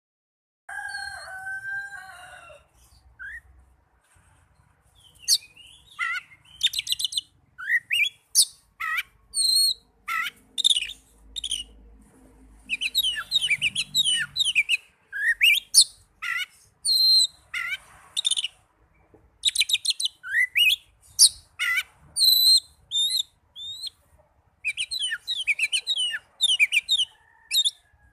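Oriental magpie-robin (kacer) singing: a varied run of clear whistles, rising and falling notes and rapid chattering trills in short phrases with brief pauses between them.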